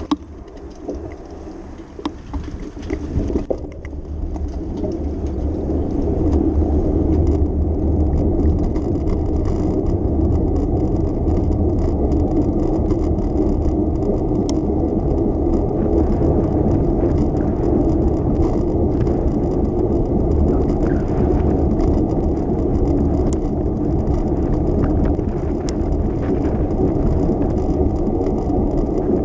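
Bicycle riding along city streets: a steady rumble of tyres on the road with rattling from the bike. It is quieter for the first few seconds, grows louder about four to six seconds in, and then holds steady, with occasional light clicks.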